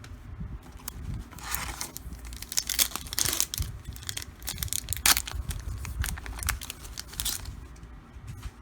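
The wrapper of a 2013 Fleer Retro football card pack being torn open and crinkled, in a run of sharp rips and crackles from about a second in until near the end.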